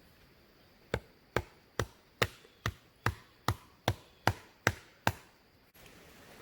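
Eleven steady, evenly spaced blows of a tool striking wood, a little over two a second, each a sharp knock with a short ring, then stopping.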